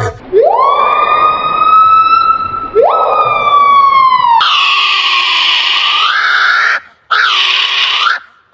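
Loud bird cries: two long calls that each sweep quickly up in pitch and then slide slowly down, followed by two harsh, rasping screeches.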